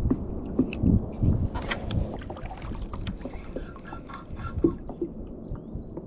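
Fishing kayak on the water: irregular low knocks and small clicks against the hull and gear, over a low rumble of wind on the microphone. The loudest knock comes right at the start.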